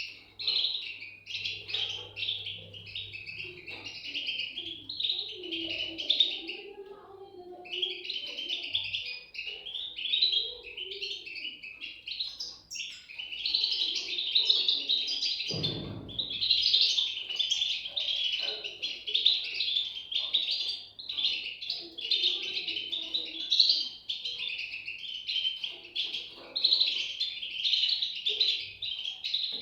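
European goldfinch chicks chirping continuously in a dense chorus of rapid, high-pitched calls. A single low thump comes about halfway through.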